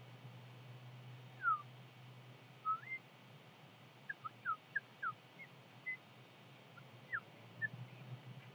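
A bird chirping: a scattered series of short, faint whistled notes, some sliding down and some sliding up, at irregular intervals.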